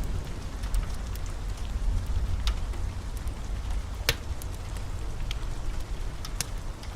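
Wood fire crackling in a fireplace: scattered sharp pops and snaps over a steady low rumble of burning, with one louder pop about four seconds in.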